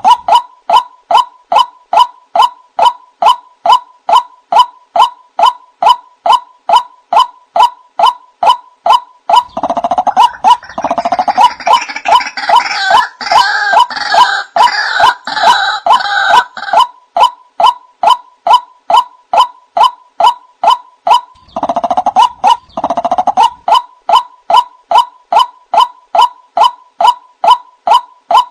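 White-breasted waterhen (ruak-ruak) calling: a monotonous run of short, evenly repeated notes, about two a second. About ten seconds in, a harsher, raucous chattering joins for several seconds, and it comes back briefly around twenty-two seconds.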